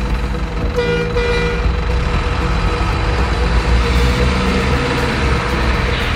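Truck engine running steadily, with two short horn toots about a second in.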